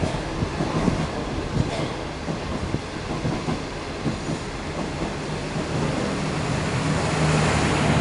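Diesel-hauled passenger train (DF11 locomotive with 25Z coaches) passing through a station without stopping, wheels clacking over the rail joints. A low steady hum builds in the second half.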